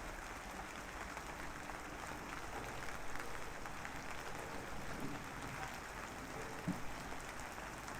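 Steady rain falling, an even hiss of drops, with a couple of slightly louder drop ticks about three and seven seconds in.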